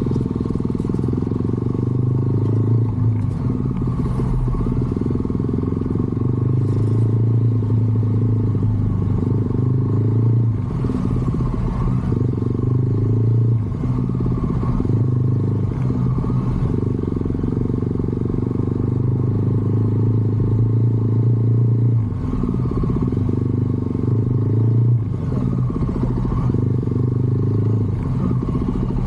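Motorcycle engine running steadily while riding, its note shifting slightly a few times with the throttle.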